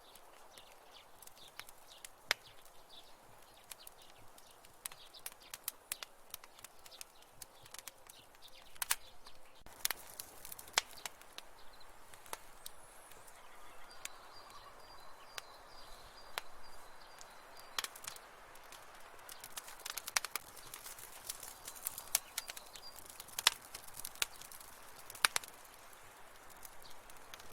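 Wood fire crackling in a fireplace: sharp, irregular pops and snaps over a soft hiss.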